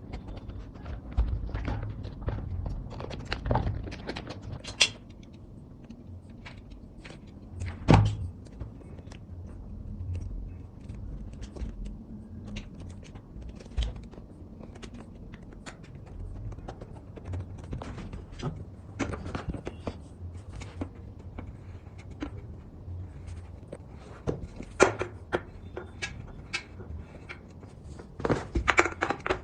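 Handling noises of small-scale crafting with cut drink-can metal and tools: irregular taps, clicks and knocks, the sharpest about eight seconds in and again near the end.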